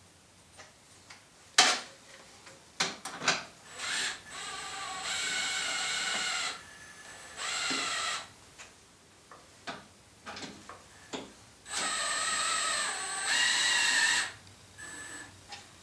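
A power drill/driver runs in several short bursts with a steady motor whine, turning the threaded adjusters that raise the benchtop table saw. Sharp clicks and knocks come between the bursts, and the last long run steps up in pitch partway through.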